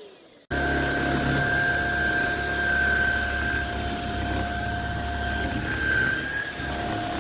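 Cordless stick vacuum motor running with a steady high whine and a low hum. It starts abruptly about half a second in, after a brief silence.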